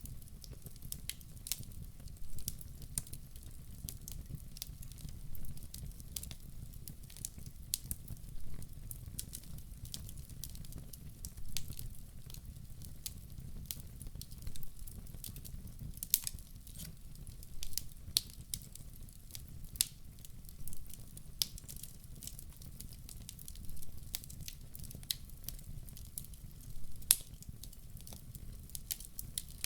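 Wood fire burning in a fireplace: irregular sharp crackles and pops over a steady low rumble of the flames, with a few louder pops now and then.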